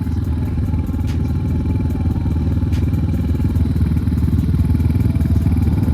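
Air-cooled enduro motorcycle engines idling steadily after warm-up, with a fast, even pulse.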